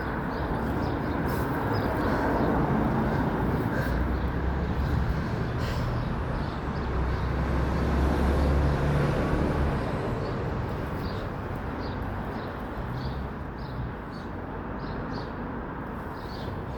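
Jet airliner on landing approach passing the observer: a rushing engine roar with a deep rumble that builds to its loudest about halfway through, then slowly fades.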